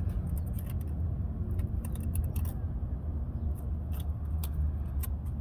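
Scattered small metallic clicks and taps of tools and parts being handled while a mechanical fuel pump is fitted to a pickup's engine, over a steady low rumble.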